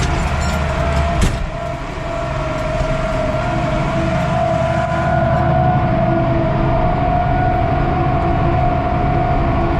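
Vehicle engine running steadily, with a low rumble and a steady whine. There is a single sharp knock about a second in.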